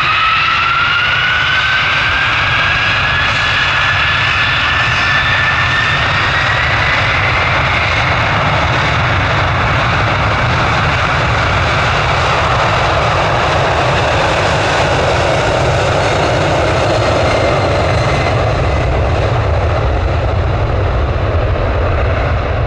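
Jet airliner engines running at high power. A whine climbs in pitch over the first several seconds as the engines spool up, over a steady loud roar and low rumble.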